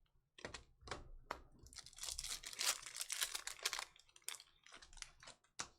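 Foil wrapper of a Topps Chrome baseball card pack crinkling and tearing as it is ripped open, a dense crackle lasting about two seconds in the middle. A few sharp clicks come before and after it as the cards are handled.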